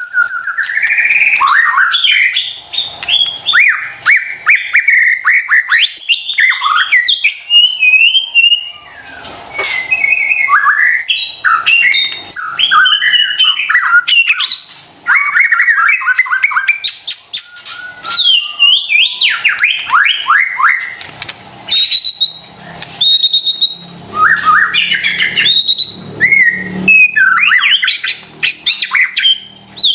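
White-rumped shama (murai batu) singing a loud, continuous, varied song: quick whistled phrases, fast rising and falling trills and harsh chattering notes, broken every few seconds by gaps of about a second.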